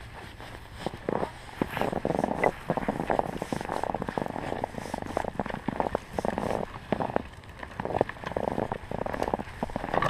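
A snowboard sliding and scraping over a thin layer of snow, an irregular rough, crackling rasp.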